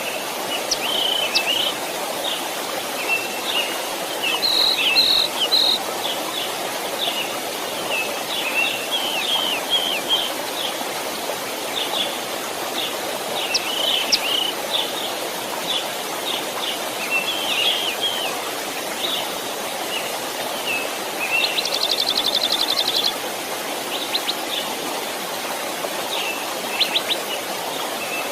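Small stream flowing steadily under many birds singing, with short chirps and whistled notes throughout and a fast trill of rapid repeated notes lasting about a second and a half near the end.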